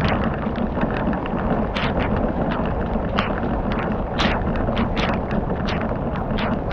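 Wood fire crackling, with irregular sharp pops a few times a second over a steady rushing noise.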